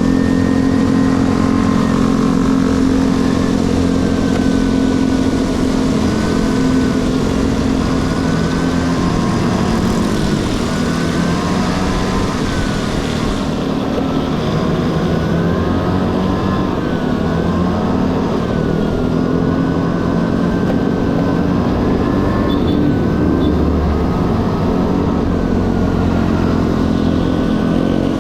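Honda Dio AF18 scooter's two-stroke single-cylinder engine running under way, its pitch rising and falling as the throttle changes.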